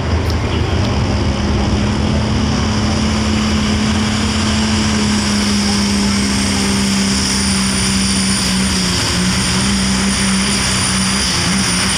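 Super stock diesel pickup truck running at full throttle under load, its heavy engine drone mixed with a high turbocharger whine that rises slightly through the second half.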